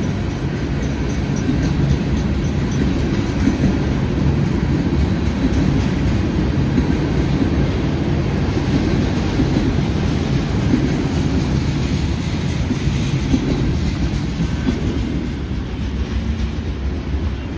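Freight train cars rolling past at close range: a steady rumble of wheels on the rails with some clickety-clack.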